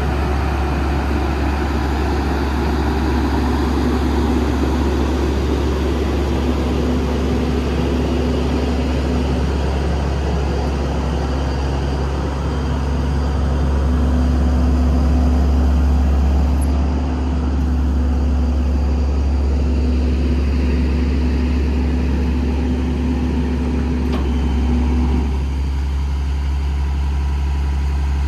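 Paccar PX-6 6.7-litre diesel running at a slightly raised idle to drive the PTO hydraulic pump for the truck's crane. A steady low hum, with a higher tone that comes and goes as the crane's hydraulic functions are worked; the sound shifts about 25 seconds in.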